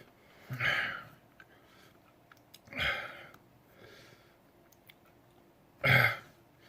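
A person's sharp, breathy exhales, four of them a second or two apart, the last the loudest, as he copes with the burn of a superhot chili pepper.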